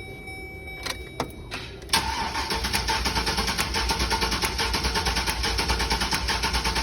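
A couple of clicks, then the 2003 Chevy Express van's engine cranked over by its starter for about five seconds without firing, an even pulsing rhythm. This is a compression test on cylinder 7, with a gauge screwed into the spark plug hole; it reads about 170 psi, good compression.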